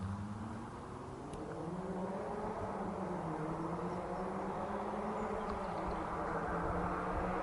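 Mazda MX-5 Miata (ND) four-cylinder with an aftermarket Invidia exhaust, accelerating at a distance and coming closer: the exhaust note climbs in pitch and grows gradually louder.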